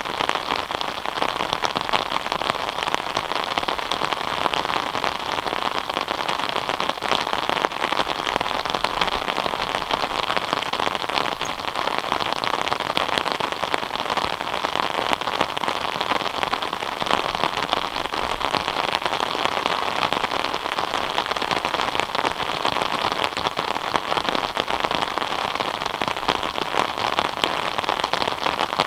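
Steady rain falling, a dense continuous patter of drops hitting surfaces.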